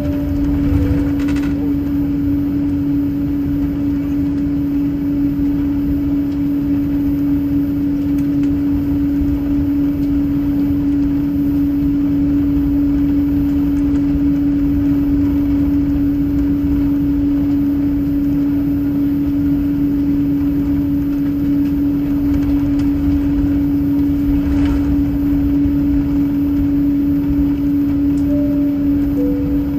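Steady drone inside a jet airliner cabin: a constant hum over a low rumble. Near the end a soft falling two-note cabin chime sounds.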